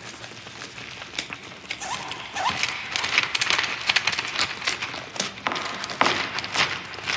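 Rapid, overlapping tapping and clicking on desks, with two short rising squeaks about two seconds in; the tapping grows busier and louder after that.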